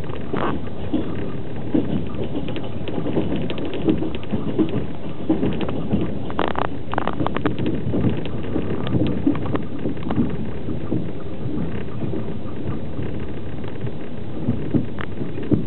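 Passenger train running on the line, heard from inside an open-plan sleeper carriage at the window: steady noise of wheels on rails and carriage, with frequent irregular clacks and rattles.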